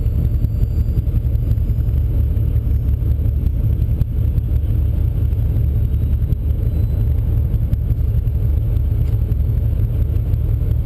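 Race car's engine idling steadily, heard from inside the cabin as a low rumble.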